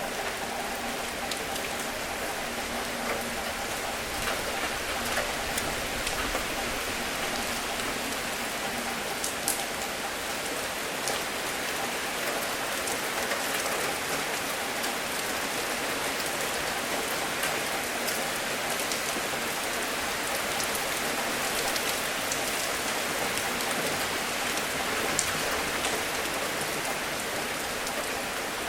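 Steady rain falling, an even hiss with occasional single drops tapping sharply on a surface.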